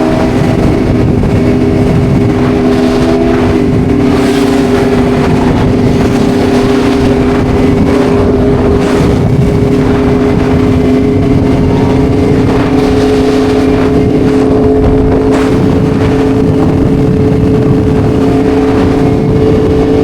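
Sport-bike engine running loud at steady revs, its pitch held nearly constant and stepping slightly a couple of times.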